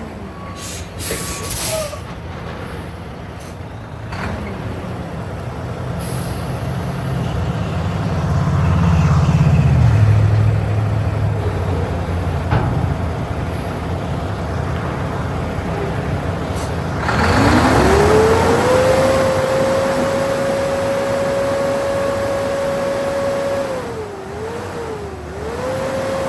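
Mack GU713 tri-axle dump truck's diesel engine working as the truck is driven, with a short hiss of air brakes near the start and the engine note swelling in the middle. Later a single high whine rises, holds steady for several seconds, dips twice and falls away near the end.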